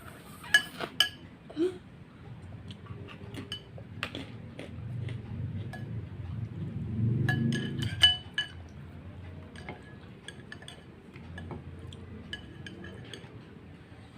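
Eating utensils clinking against a bowl during a meal of boiled instant noodles: a few sharp ringing clinks near the start, more around the middle, and lighter taps later. A low muffled noise builds for a few seconds just before the middle clinks.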